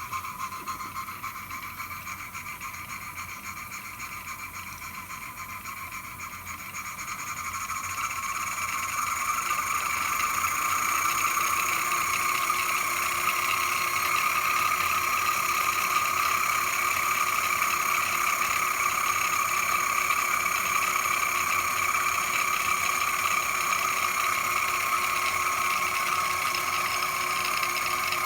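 Model live steam engine running and driving a set of toy workshop accessories through belts and line shafts: a steady mechanical whir that picks up speed and grows louder over the first ten seconds or so, then runs evenly.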